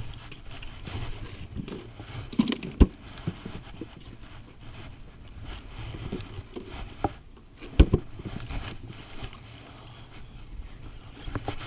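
Wind buffeting the microphone as a steady low rumble, with light scraping and two sharp knocks, one about three seconds in and one about eight seconds in.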